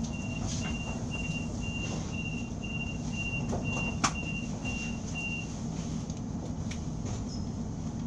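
Passenger train standing at a station: a steady low hum with a short high beep repeating about twice a second that stops about five seconds in. One sharp knock a little before the beeping stops, with scattered light ticks.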